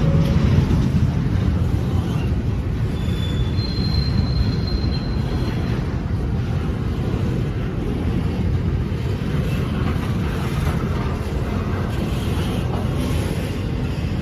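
Train rolling past with a steady rumble of wheels on rail. A thin, high wheel squeal comes in about three seconds in and lasts a few seconds.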